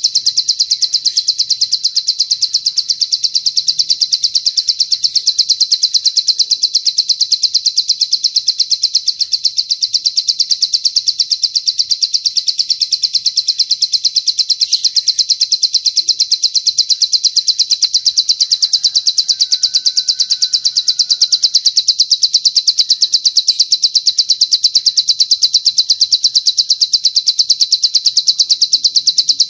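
Plain prinia (ciblek sawah) singing the long 'cililin' song: a fast, even trill of high notes, about ten a second, running on without a break.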